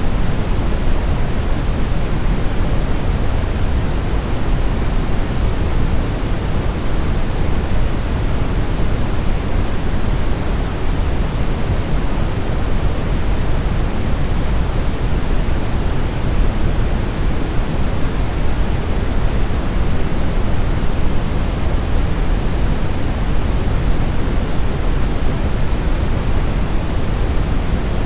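Steady brown noise: a continuous, even rushing hiss weighted toward the low end, with no changes or events.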